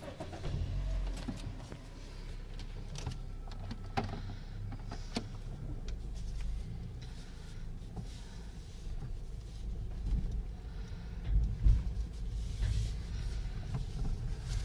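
Steady low rumble heard from inside a car's cabin in an automatic car wash, with scattered clicks and knocks and a louder swell about ten to twelve seconds in.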